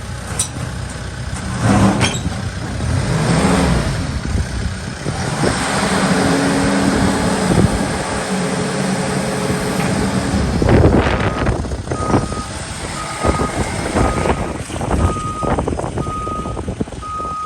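Case 770FX backhoe loader's diesel engine running and revving, with a few clanks about eleven seconds in. From about twelve seconds its reversing alarm beeps about once a second.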